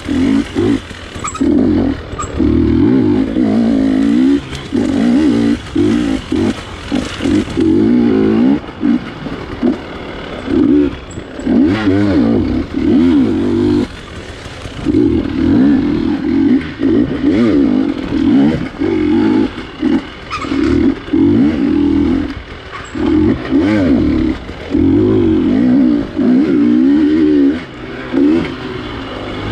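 GasGas 250 dirt bike engine revving hard in short bursts, the pitch rising and falling as the throttle is opened and chopped again and again, with brief drops in sound between bursts.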